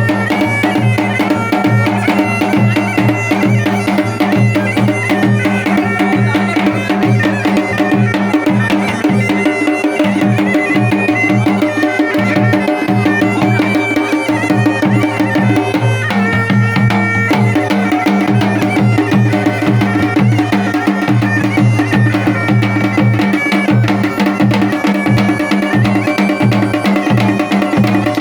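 Pahadi folk band music: a mashak been (Himalayan bagpipe) plays a melody over its steady drone, with dhol and damau drums beating a steady rhythm. The melody briefly drops out about sixteen seconds in, while the drone and drums carry on.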